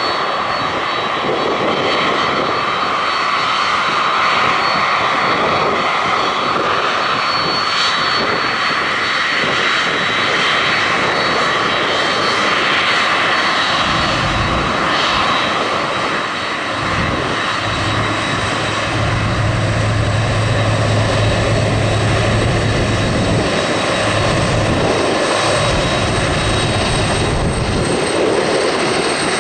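Airliner engines running loud and steady at the airport, with a thin high whine above the noise and a low steady hum joining in about halfway through.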